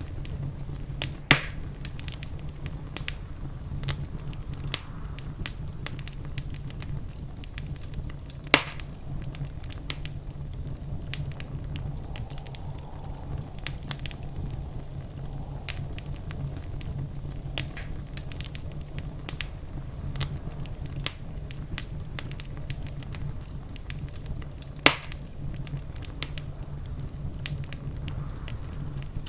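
Wood fire crackling in a fireplace: many small snaps and three much louder pops, over a steady low rumble.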